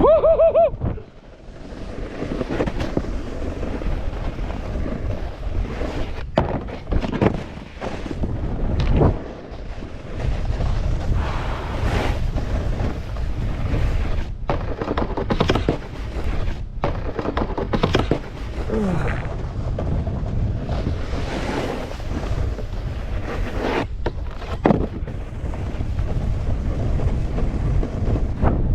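Wind buffeting the microphone of a camera worn by a snowboarder riding downhill, a steady low rush broken by many short scrapes of the board on the snow.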